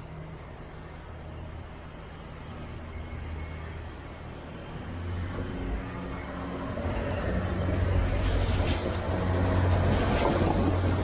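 Slovenian Railways multiple-unit passenger train approaching and passing close by: a low engine drone grows steadily louder, and from about eight seconds in the wheels rumble and clatter over the rails as the cars go past.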